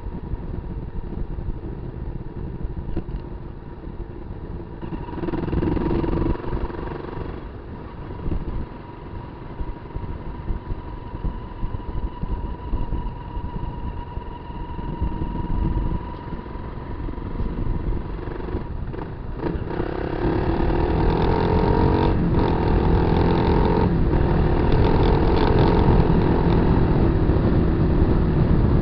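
Kawasaki KLR250's single-cylinder four-stroke engine running as the bike is ridden. The throttle opens briefly about five seconds in, and from about twenty seconds in the engine is louder, with its pitch rising and shifting as it revs up.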